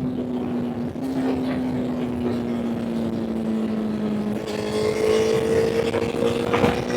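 Honda CBR1000 inline-four motorcycle engine under way, its note steady and sagging slightly, then about halfway through jumping higher and climbing slowly as the bike accelerates.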